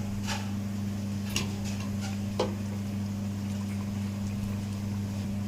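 A steady low electrical hum, with two short light knocks about a second and a half and two and a half seconds in.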